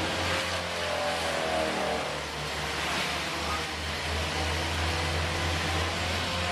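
A steady low engine hum under a wash of noise, with a wavering higher whine in the first two seconds.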